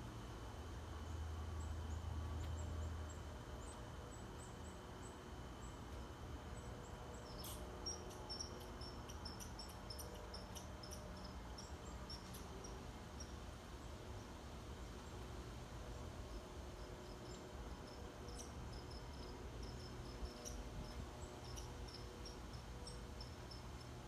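Faint outdoor ambience: small birds give quick runs of short, high chirps, starting about seven seconds in and again near the end, over a low steady rumble that is a little louder in the first few seconds.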